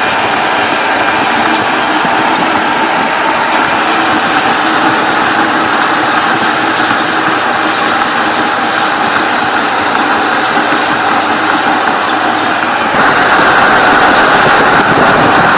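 Steady running noise of a truck driving, which steps up abruptly and gets louder near the end.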